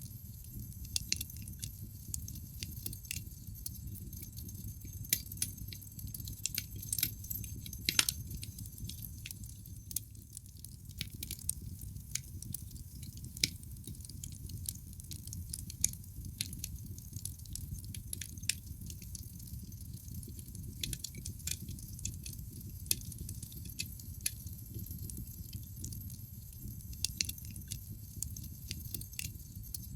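Wood fire burning in a fireplace, logs crackling and popping irregularly over a steady low rumble of the flames, with one louder pop about eight seconds in.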